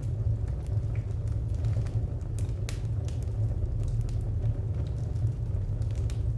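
Wood fire crackling: scattered sharp pops and snaps, a few a second at most, over a steady low rumble.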